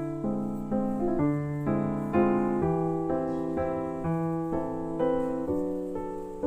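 Background music: a soft piano melody of struck notes, each ringing and fading, played at an even, gentle pace.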